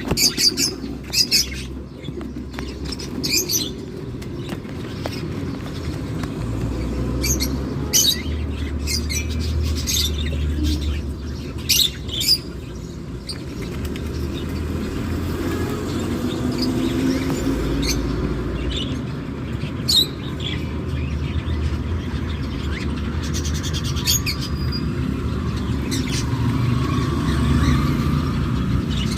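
Cockatiel chicks chirping in the nest, short high calls coming irregularly, over a steady low rumble.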